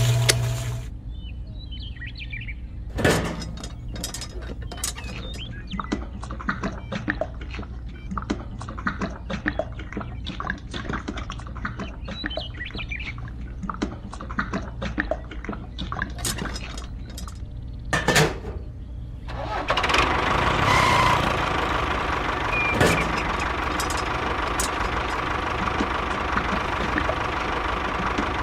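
Small electric motor of a DIY toy cement mixer, humming steadily until a rocker switch cuts it off about a second in. Irregular clicks and knocks follow as wet cement slops out of the mixer's chute. About twenty seconds in, a small motor starts up again and runs steadily.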